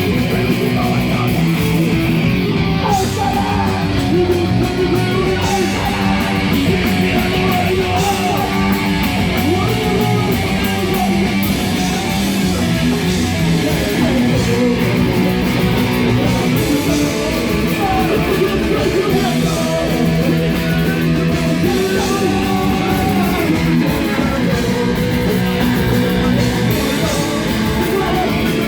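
Loud rock band playing live, with distorted electric guitars over steady, fast drums.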